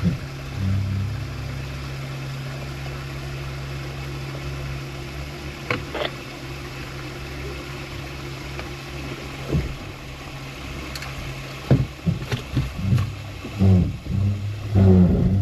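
An off-road vehicle's engine runs steadily at low speed, a low even hum. Near the end come several irregular, loud low thumps.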